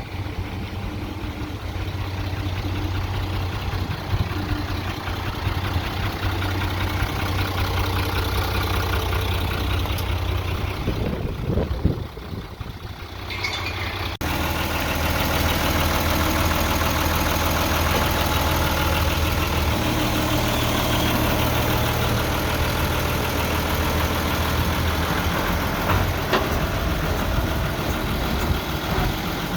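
Hino Ranger's H07C six-cylinder diesel engine idling steadily. About halfway through, the sound steps abruptly to a louder, fuller running.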